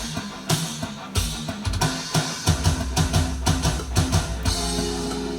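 A heavy rock track plays: a drum kit with kick and snare hitting in a fast, steady rhythm under a guitar riff. About four and a half seconds in, the riff gives way to a held, ringing note.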